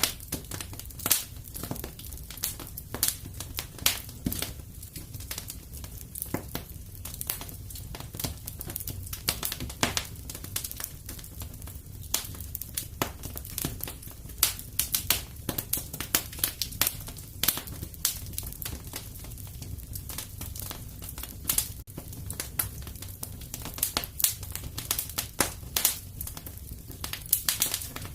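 Fire crackling in a fireplace: a steady low rumble with irregular sharp pops and crackles, several a second.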